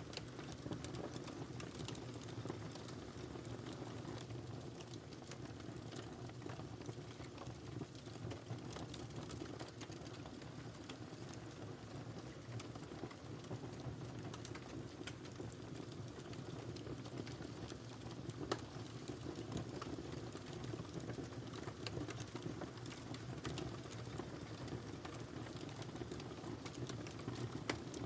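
Wood fire crackling in a fireplace: a steady low rumble of flames under frequent small, sharp crackles and pops, one pop louder about two-thirds of the way through.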